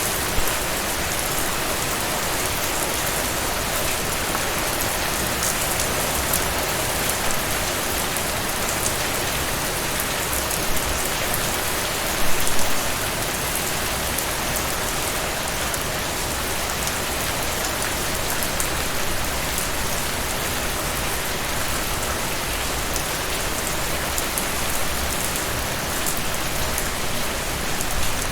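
Heavy rain falling steadily, a dense even hiss with many fine drop ticks, briefly louder about twelve seconds in.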